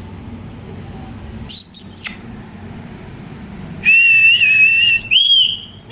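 Pet parrot calling: a short shrill screech, then about a second later a long, slightly wavering whistle, followed by a shorter whistled note that rises and falls.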